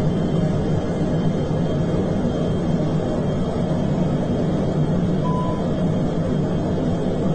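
Steady cockpit noise of a fighter jet in flight, an even roar with no change in level. A short single beep sounds about five seconds in.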